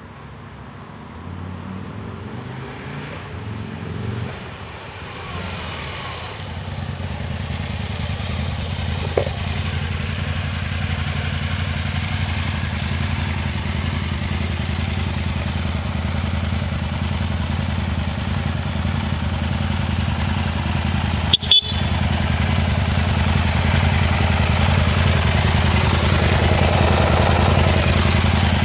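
Aprilia Tuono 1000 motorcycle engine running steadily, growing louder over the first several seconds and then holding an even note. There is one sharp click about three-quarters of the way through.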